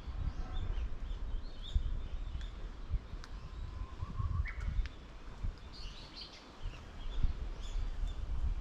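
Small birds chirping and twittering repeatedly in the trees, with one longer, lower whistled note about halfway through. An irregular low rumble runs underneath.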